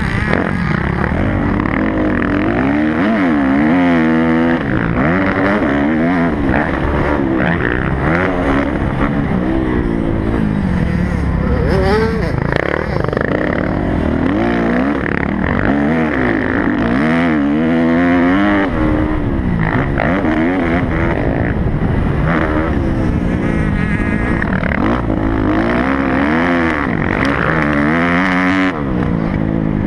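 Kawasaki motocross bike engine revving up and falling back again and again as it is ridden hard around the track, with wind rushing over the bike-mounted camera.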